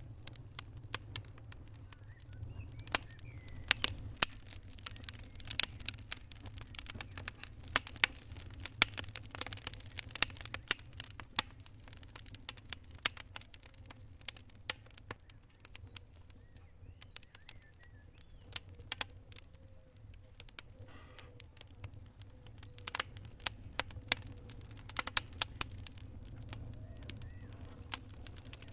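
Fire crackling: irregular sharp pops and snaps over a steady low rumble. The pops are thick for the first dozen seconds, thin out in the middle, and come thick again near the end.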